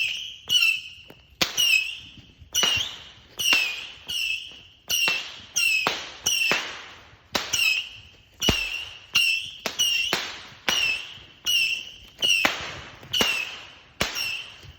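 Firework cake firing shot after shot at an even pace, about three every two seconds, each a sharp pop followed by a short high-pitched ring that fades.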